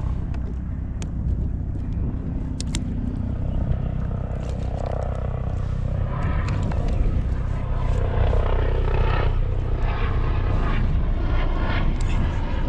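A steady low engine drone that gets a little louder in the second half, with a few sharp clicks over it.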